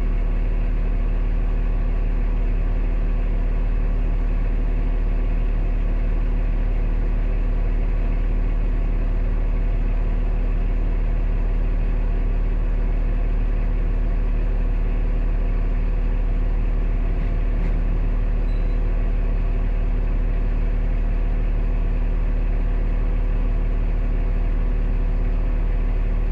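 Large engine running steadily at idle, a deep, unchanging hum with a steady tone.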